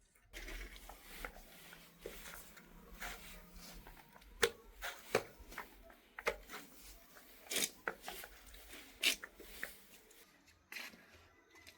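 Hand work on a floor: irregular sharp taps and clicks of tools or tiles over a low scraping and rubbing, the louder knocks coming in the middle and later part.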